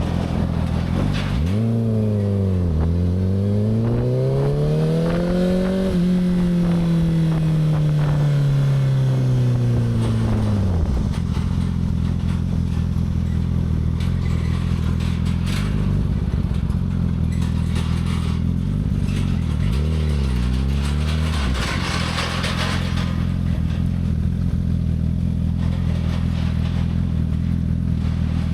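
Motorcycle engine ticking over steadily. It rises and falls in pitch twice from about two seconds in, then winds down slowly for several seconds until nearly halfway through. A brief dip and rise follows about two-thirds of the way in.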